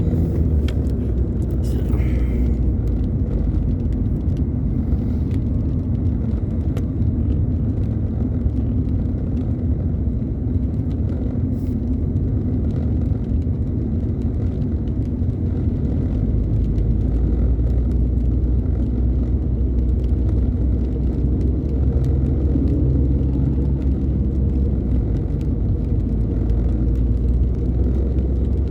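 Car driving, heard from inside the cabin: a steady low rumble of engine and road noise, with faint scattered light ticks.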